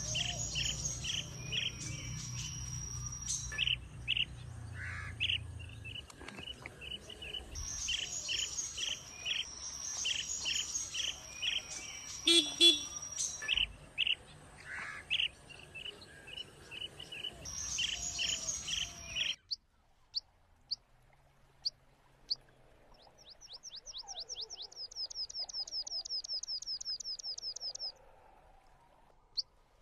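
Birds chirping and singing: quick repeated chirps mixed with whistled phrases. About two-thirds of the way through this stops abruptly, leaving scattered single chirps and a fast trill of repeated notes, about four a second, lasting several seconds.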